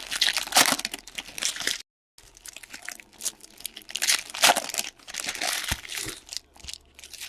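Crinkling and tearing of plastic card wrapping, handled in irregular bursts, with a brief complete dropout about two seconds in.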